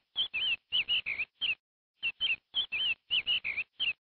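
Bird chirping: a quick run of short, high chirps, some bending up and down in pitch, in two near-identical phrases with a brief pause near the middle.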